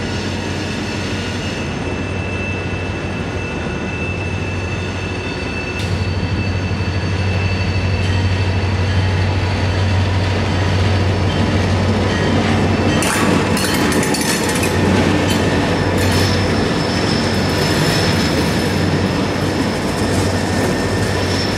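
Freight train with SD40-2 and GP40-2 diesel locomotives rolling through a wye curve: a steady low diesel engine drone under the rumble of the wheels, with thin steady squeals from steel wheels in the curve and, from about two-thirds of the way in, sharp clicks as wheels pass over rail joints.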